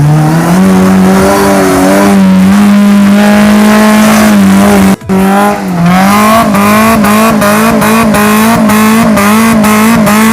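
Suzuki Samurai four-cylinder engine revved hard and held at high revs. It cuts out sharply for an instant about halfway through, then bounces on the rev limiter: the pitch jerks up and down several times a second with quick cuts. Near the end the revs fall away.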